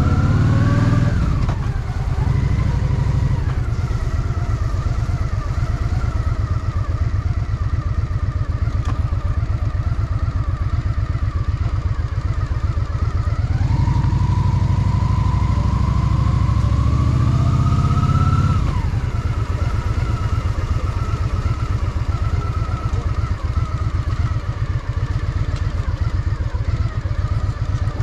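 Honda Shadow VT750's V-twin engine running under way with a dense, pulsing exhaust beat. It climbs in pitch and drops back about a second in, runs steady, then pulls up in pitch for about five seconds from about halfway through before dropping back suddenly.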